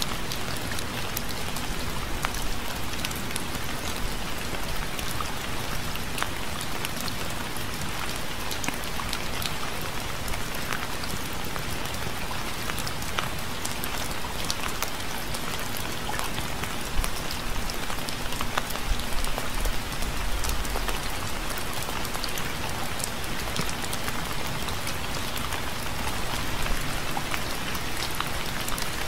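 Steady rain falling on a surface: a constant hiss with many individual drops ticking through it.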